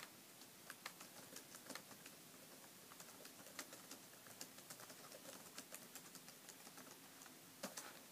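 Near silence with faint, irregular light clicks and taps, several a second, a little louder for a moment near the end.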